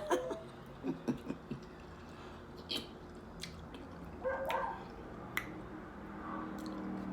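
A neighbour's dog heard faintly, with one short call about four and a half seconds in, among small sharp clicks and a low steady hum.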